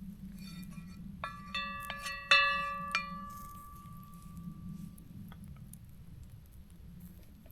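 Metal cookware clinking: about five light metallic strikes in two seconds, the loudest about two seconds in, each leaving a bell-like ring that fades over a couple of seconds.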